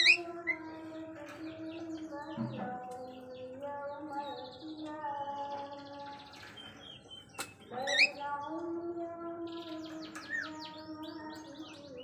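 Bird chirping: short sharp rising calls, the loudest right at the start and about eight seconds in, with a quick run of small chirps near the end. Underneath are long held melodic notes that step up and down in pitch.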